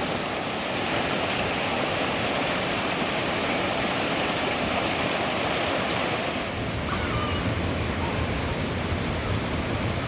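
Mountain stream water rushing over rocks, a steady, even rush. About six and a half seconds in it shifts to a deeper, less hissy rush.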